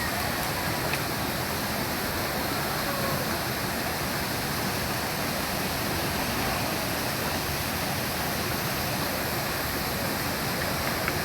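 Mountain stream rushing over rocks: a steady, unbroken rush of flowing water.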